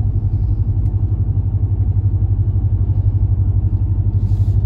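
2019 Ram Rebel's 5.7-litre Hemi V8, exhaling through a B2 Fabrication Moderate muffler with the resonator deleted, cruising with MDS cylinder deactivation engaged so it runs on four cylinders. The exhaust gives a steady low drone with an even pulse.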